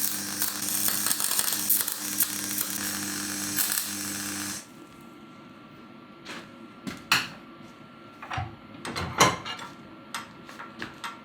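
Electric welding of a bead of weld around the base of a Land Rover Series gear lever: a steady welding crackle with an electrical hum under it, which stops sharply about four and a half seconds in. Scattered sharp clicks and taps follow.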